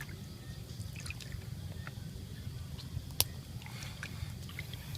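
Water trickling and dripping in small splashes over a low steady rumble, with one sharp click about three seconds in.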